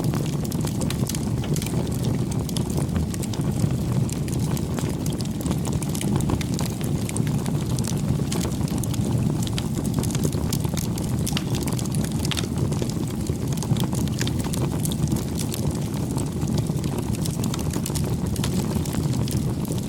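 Campfire burning steadily: a low rumble of flames with frequent small crackles and pops of burning wood throughout.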